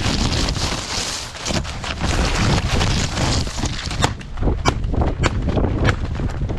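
Wind buffeting the microphone with rustling noise, and a run of sharp clicks from about four seconds in.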